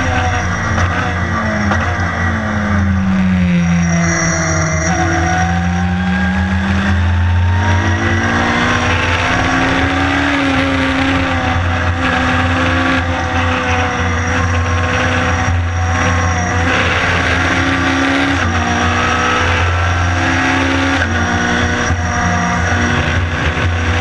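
Honda engine of a Lotus race car heard from inside the cockpit at racing speed: its pitch falls a few seconds in as the car slows for a corner, climbs again, then drops back twice later on with gear changes, over a steady low cabin drone.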